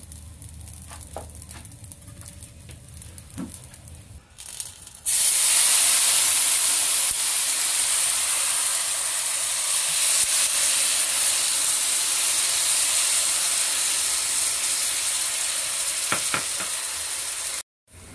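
Starch water poured into hot oil in a frying pan of pan-fried buns (shengjianbao). It starts a loud sizzle suddenly about five seconds in, and the sizzle holds steady until it cuts off near the end.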